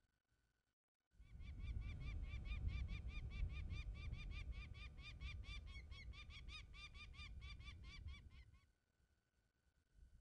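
A bird calling a rapid, even series of short, harsh notes for about seven seconds, over a loud low rumble.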